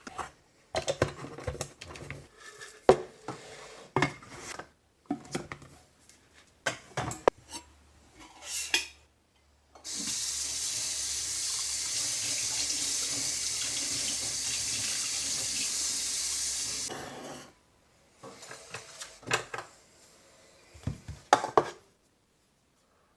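Water running from a tap for about seven seconds. Before and after it come scattered clatters and knocks of dishes and utensils.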